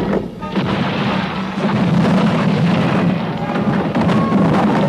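Cartoon sound effect of a building collapsing: a loud rumbling crash with clattering debris and several heavy impacts, continuing without a break.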